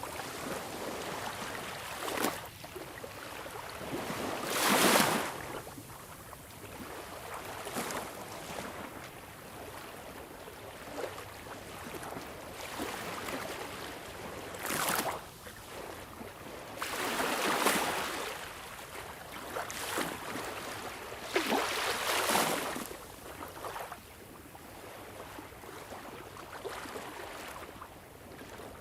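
Sea waves: a steady wash of surf with louder waves surging in every few seconds.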